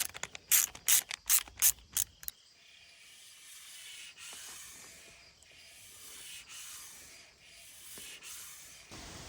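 A hand ratchet wrench worked in quick, short strokes for about two seconds, followed by a steady hiss that swells and dips.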